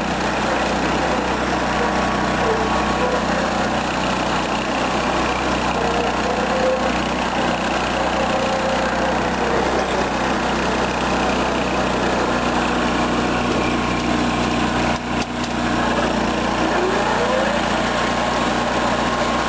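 The freshly rebuilt Kohler K241 ten-horsepower single-cylinder engine of a John Deere 210 garden tractor runs steadily, its pitch wavering slightly now and then, with a brief drop in level about fifteen seconds in.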